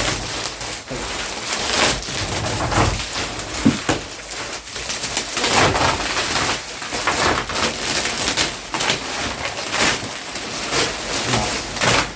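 Plastic wrapping of a vacuum-packed, rolled memory-foam mattress rustling and crinkling as it is handled, in an irregular run of sharp crackles.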